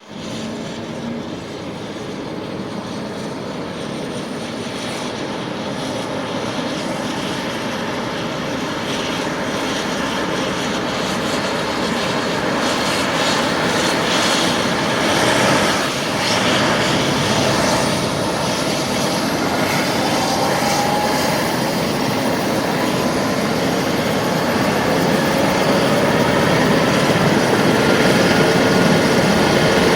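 Rescue helicopter's turbine engine and rotor running, growing steadily louder, with a thin whine slowly rising in pitch.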